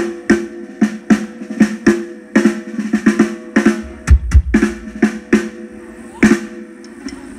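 Acoustic drum kit being played in a soundcheck: sharp snare and tom strikes, about two or three a second, each ringing briefly. A couple of deep bass drum kicks come a little after four seconds.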